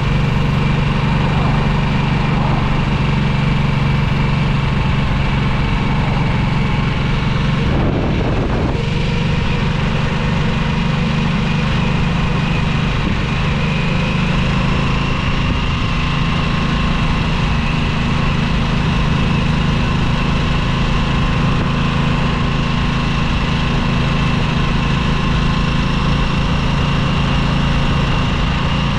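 2022 Harley-Davidson Nightster's Revolution Max 975T liquid-cooled V-twin running steadily, its pitch holding nearly even, with a brief burst of noise about eight seconds in.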